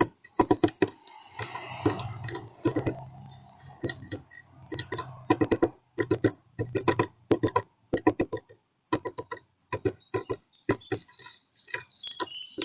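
A bird tapping and scratching at the wooden birdhouse, picked up close by the nest-box camera's microphone: irregular clusters of sharp ticks and knocks, over a low electrical hum, with a few faint high chirps near the end.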